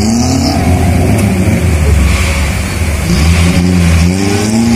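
Suzuki Katana (Jimny) 4x4's engine revving, its pitch rising and falling repeatedly as it wades through a fast-flowing river, with water rushing around it.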